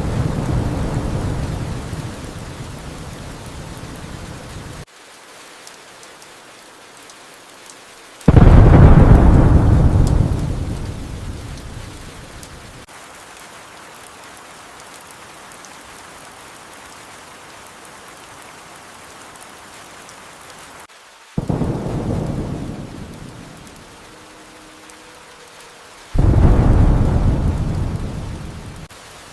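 Steady rain with thunder: a rumble fades away over the first few seconds, then three sudden thunderclaps, each rolling off over a few seconds, come about eight, twenty-one and twenty-six seconds in, the first the loudest.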